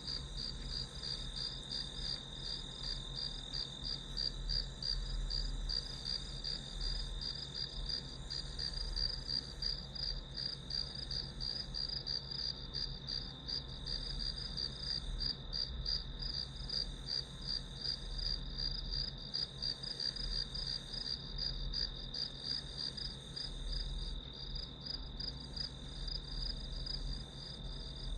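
Crickets chirping in a steady chorus: a rapid pulsing chirp with a steadier trill just beneath it, going on without a break.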